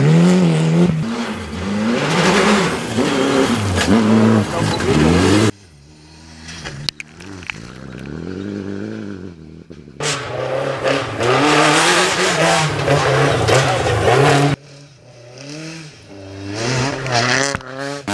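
Rally cars at full throttle on a gravel stage, engines revving up and dropping back again and again through gear changes, in several short clips that cut abruptly. Between about six and ten seconds in, the engine is quieter.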